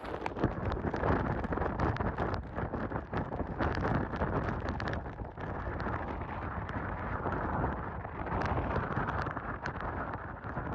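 Hurricane wind with heavy rain: a loud, steady rush with gusts buffeting the microphone and many short crackles and spatters.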